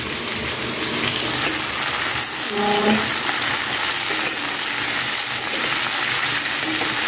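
Chopped button mushrooms and onion sizzling in hot oil in a black wok, stirred with a spatula: a steady frying hiss.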